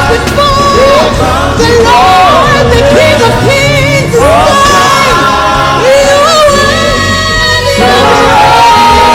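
Church worship music: voices singing a wavering, drawn-out melody over a band with sustained low bass notes, loud throughout.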